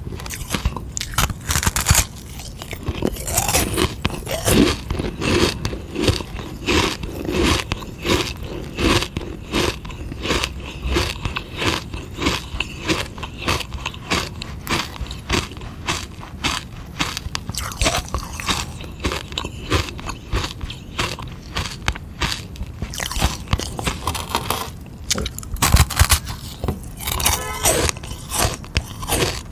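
A hard sugar-water ice lolly being bitten and chewed, with crisp crunching cracks coming in quick succession.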